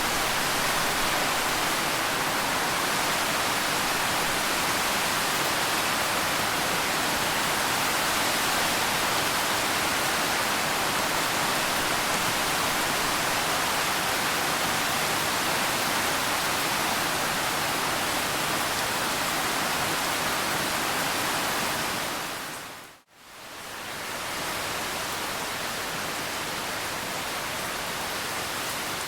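Steady rain, a dense even hiss of falling water. About 23 seconds in it fades out to near silence for a moment and then fades back in, a little quieter than before.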